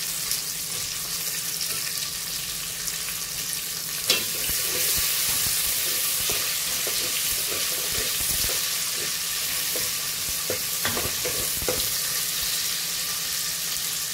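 Chopped garlic and sliced onion sizzling in hot oil in a metal pot while being sautéed and browned, stirred with a metal spoon. A sharp clink of the spoon on the pot about four seconds in, after which the sizzle gets louder, then a few more spoon knocks against the pot.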